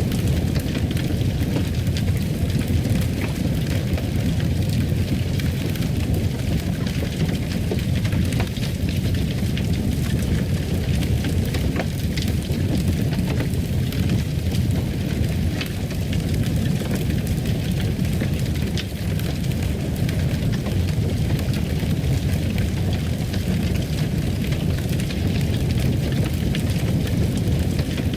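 Fireplace burning: a steady low rush with scattered small crackles and pops.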